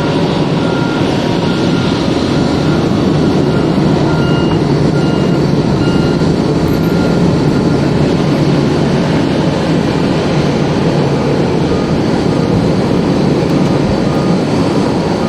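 Boeing 777-200ER jet engines at takeoff power: a loud, steady rumble, mixed with strong wind buffeting the microphone. Faint short beeps repeat through it.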